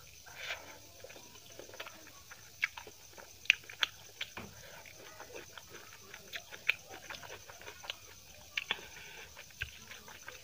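Close-up eating of chicken biryani by hand: wet chewing and mouth smacking with many sharp, irregular clicks, the loudest a few seconds in. Fingers squelch through the rice near the end.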